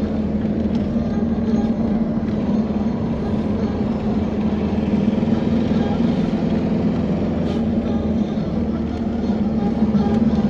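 Truck engine running steadily, a constant low drone.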